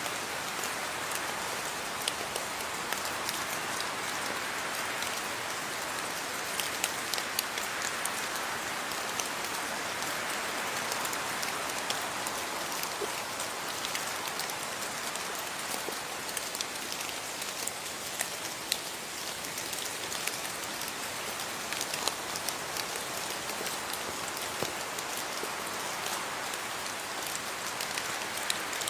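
Steady rain falling on a surface, an even hiss with many distinct drop ticks scattered through it.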